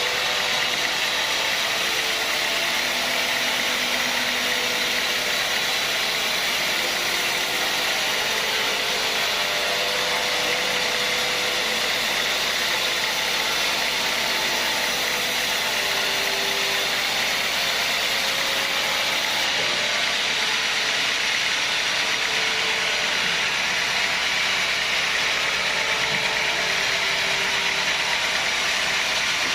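Sawmill machinery running steadily, an even, hissing mechanical noise with no breaks or changes.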